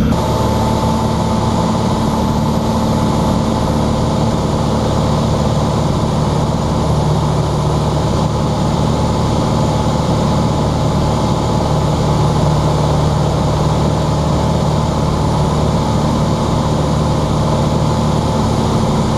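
Cessna 182's piston engine and propeller droning steadily in flight, heard from the cockpit.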